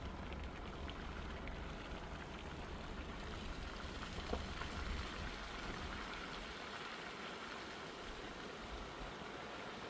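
Steady hiss of rain and running water, with a low rumble under it that fades away about six seconds in.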